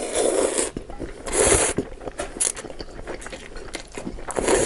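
Crisp fried aloo nimki being crunched and chewed close to the microphone, in three loud crackling bursts with small clicks between them.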